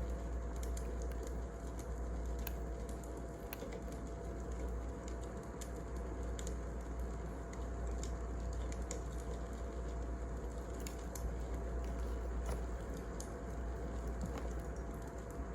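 Wood fire crackling, with irregular sharp pops and snaps over a steady low rushing noise.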